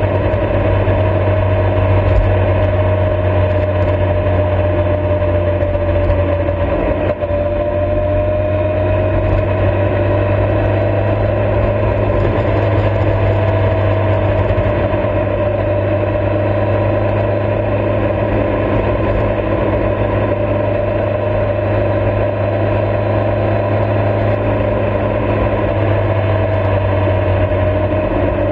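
Motorcycle engine running at a steady cruising speed, with wind and road noise, picked up by a camera mounted on the bike; the engine note stays almost level throughout.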